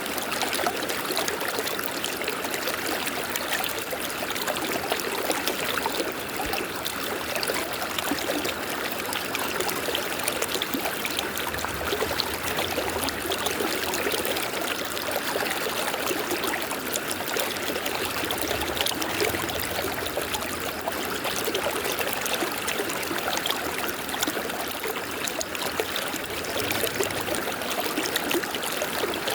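River water flowing and trickling over rocks, a steady rush without a break.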